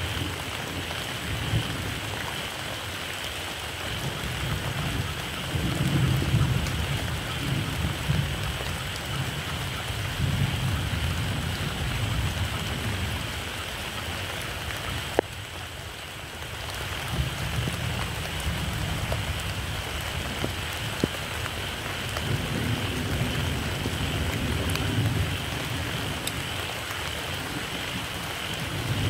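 Steady rain with low rumbles of distant thunder that swell and fade several times.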